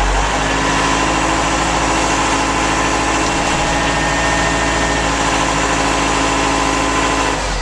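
Kubota M7040 tractor's four-cylinder diesel engine held at a raised, steady speed with the foot throttle, heard from inside the cab, dropping back down near the end.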